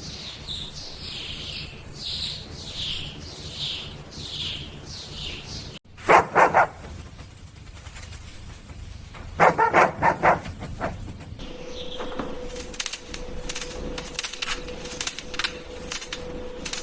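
A dog barks in two quick bursts of three or four barks, about six and ten seconds in. Before them comes a run of repeated high chirps, then a steady hum with scattered clicks.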